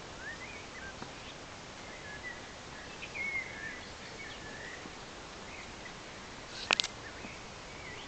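Birds chirping over a steady outdoor background hiss, with a quick cluster of sharp clicks about two-thirds of the way through.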